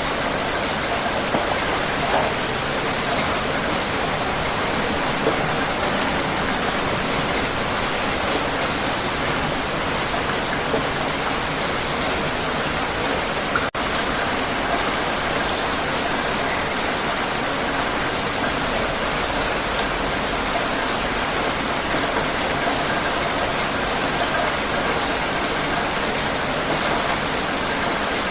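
Heavy rain falling steadily, an even hiss of many drops, with a split-second break in the sound about halfway through.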